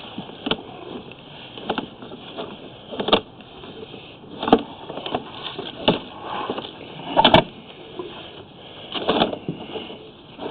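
Sewer inspection camera's push cable being fed by hand into the drain line, giving short knocks and rattles about once every second and a half over a steady hiss.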